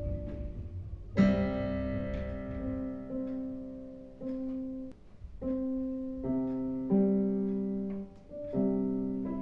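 Piano played by a young child: a simple beginner's piece in struck notes and chords, each left to ring and fade, with short gaps between them.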